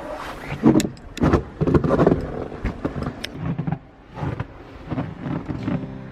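Snow shovel scraping and pushing snow along a paved walkway in a run of irregular strokes, each with a sharp start as the blade catches.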